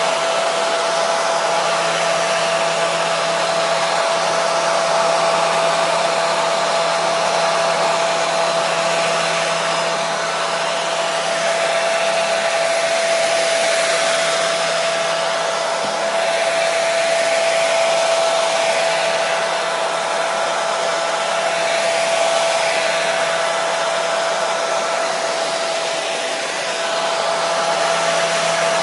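Hair dryer running steadily: a continuous rush of blown air with a steady motor whine, level with only slight slow swells.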